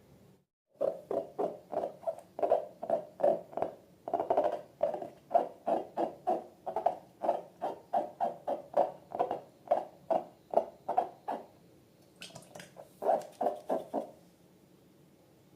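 Slime being squeezed and kneaded by hand, squelching in a steady rhythm about three times a second. It pauses about 11 s in, then comes back briefly for a few more squelches.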